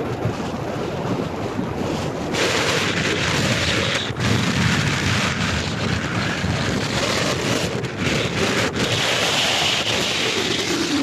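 Black Sea waves washing onto the shore, their hiss swelling about two seconds in and again near the end, with wind buffeting the microphone in a steady low rumble.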